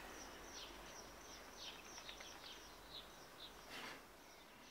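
Faint birdsong: short high chirps from small birds, about two a second, over a steady low hiss, with a brief rustle near the end.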